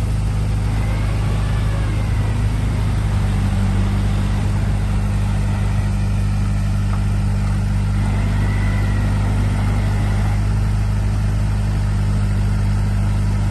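Heavy diesel engine running at a steady speed with a low, even hum; its tone shifts slightly about three seconds in.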